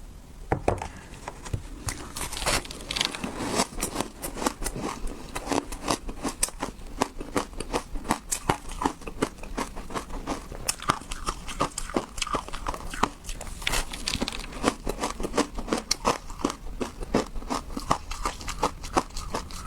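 Ice being bitten and chewed, a fast irregular run of sharp crunches and cracks close to the microphone.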